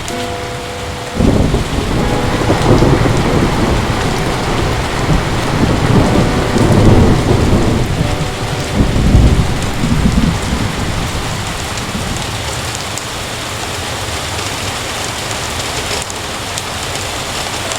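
Heavy rain falling steadily, with a thunderclap breaking in suddenly about a second in and rumbling on in rolling swells before dying away after about ten seconds.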